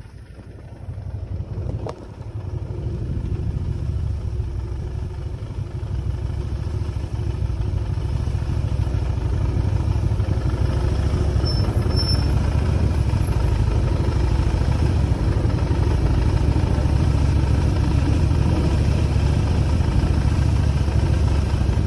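Motorcycle engine pulling away and running steadily as the bike rides, getting louder over the first few seconds. There is a short click about two seconds in.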